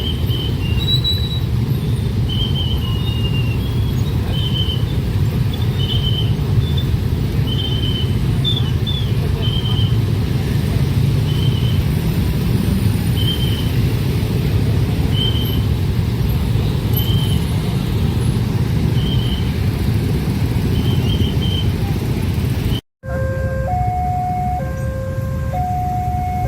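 Train passing close by: a steady, heavy rumble of wheels on the rails, with a short high tone repeating about once a second. After a sudden cut near the end comes a level-crossing warning alarm, alternating evenly between two tones.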